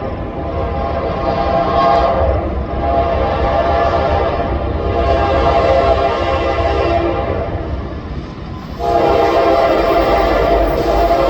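Locomotive horn sounding in several long, held blasts, with a short break before the last one starts abruptly near the end, over a low rumble from the train.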